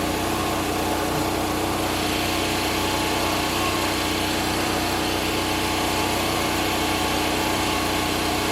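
Gas engine of a portable bandsaw sawmill running steadily under load while board edges are squared, with an even rushing noise over it. The sound cuts off abruptly at the very end.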